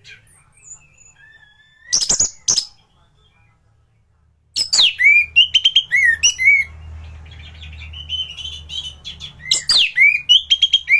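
Anis thrush singing in full song: a couple of short calls, then from about halfway in, loud, rapid phrases of sharp notes and down-slurred whistles in two bursts.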